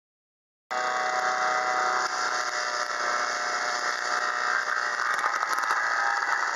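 Home-made wood chipper driven by a Bolens 1050 garden tractor, running loud and steady; the sound cuts in abruptly under a second in after dead silence.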